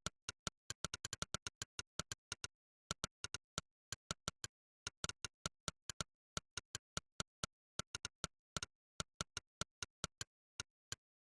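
Monkeytype's synthetic 'click' typing sound: one short click for each keystroke, in an uneven typing rhythm of quick runs and brief pauses, about four or five clicks a second, with dead silence between them.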